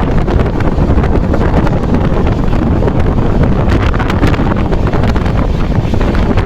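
Amrit Bharat Express train running along the track: a loud, steady rumble of wheels on rails with frequent clicks and rattles, and wind buffeting the microphone.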